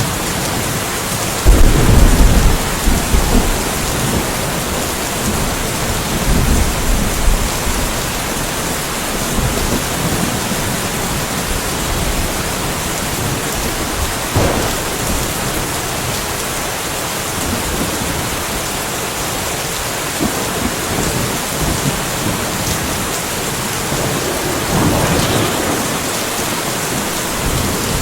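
Steady rain falling, a constant even hiss, with rolls of thunder rumbling through it. The loudest thunder comes a couple of seconds in and lasts about two seconds, with softer rumbles later.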